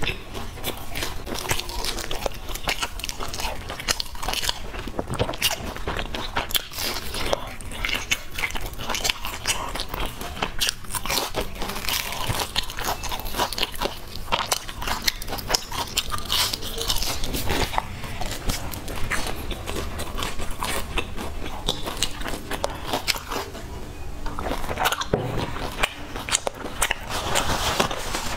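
A person biting and chewing crispy fried pork, with rapid sharp crunches and crackles throughout.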